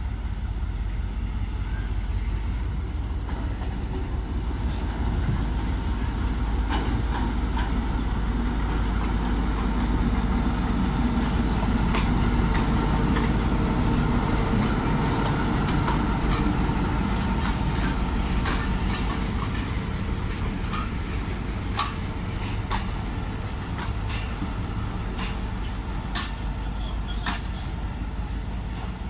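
Diesel locomotive running as it rolls slowly past, its engine loudest around the middle as it goes by. Passenger coaches follow, and their wheels give sharp clicks and knocks over the rail joints in the second half.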